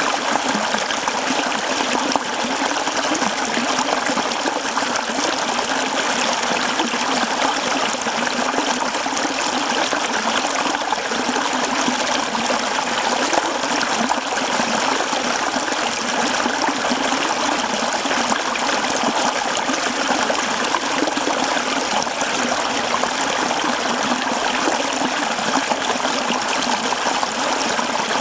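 Mountain stream running over rocks: a steady, even rush and trickle of water that does not change.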